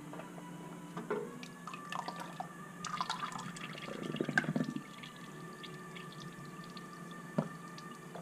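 Used engine oil dripping and trickling from the oil filter mount into a drain pan, with scattered small clicks and splashes that are busiest in the middle and one sharp tick near the end.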